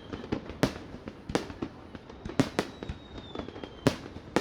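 Fireworks display: about six sharp bangs of bursting shells at uneven intervals, with smaller crackles between them. A faint high whistle slides slowly down in pitch in the second half.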